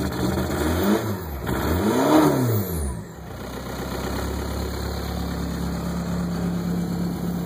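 2004 Volkswagen Jetta TDI's 1.9-litre four-cylinder turbodiesel, cold after a start in sub-15-degree weather, revved in two quick blips in the first few seconds, then settling back to a steady idle.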